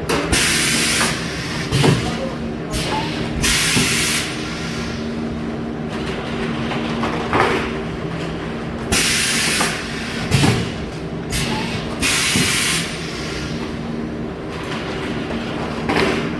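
Meat-packing machine running through its cycle: a steady machine hum broken by bursts of air hiss about a second long and a knock between them, the pattern repeating about every eight and a half seconds.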